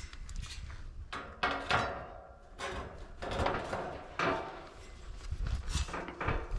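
Irregular knocks and clattering, as of hard parts of an air-conditioning unit being handled and set down, with a few louder clusters of knocks.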